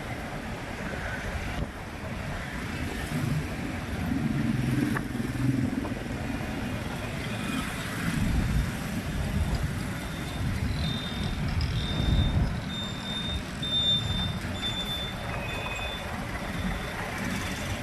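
Road traffic noise from a moving motorbike on town streets: a steady low rumble of engines and tyres. Past the middle, a run of short high electronic beeps, about two a second, lasts several seconds.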